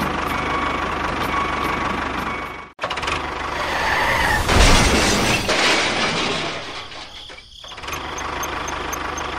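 Tractor engine sound running steadily. It cuts off suddenly about three seconds in. A louder, noisier rush peaks around five seconds in, and the steady engine sound returns near the end.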